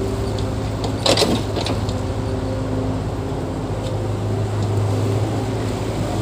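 Heavy-equipment diesel engine running steadily under load. A short metal clank comes about a second in.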